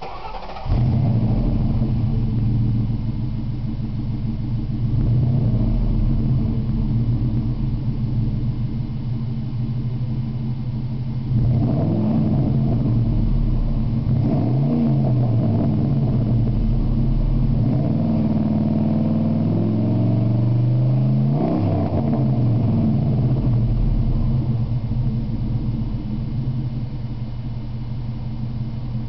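Ford 4.6 L V8 of a 1997 F-150 running through a true dual exhaust with Flowmaster 40 Series mufflers, catalytic converters still in place. It comes up loud about a second in and idles, then is revved several times in the second half: short blips and one longer, held rise, before settling back to idle.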